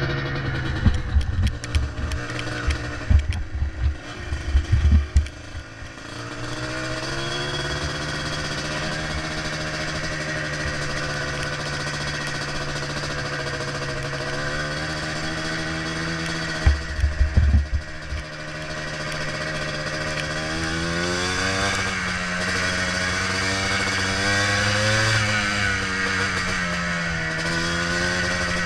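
Yamaha Blaster ATV's two-stroke single-cylinder engine running under way, its pitch rising and falling with the throttle and climbing in the last third. Bursts of low thudding come in the first few seconds and again about two-thirds of the way through.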